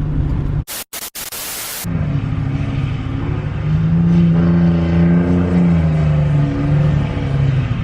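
Pickup truck engine revving up and held at high revs as the truck swings in a burnout. It follows a brief burst of hiss about a second in.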